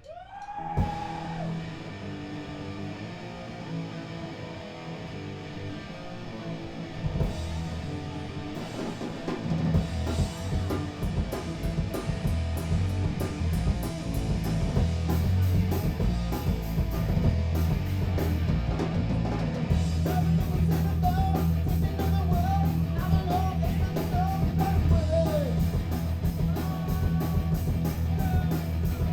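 Punk rock band playing live with electric guitar, bass and drum kit. A guitar note rings out at the start, then the band builds and grows louder, with the drums hitting steadily from about ten seconds in.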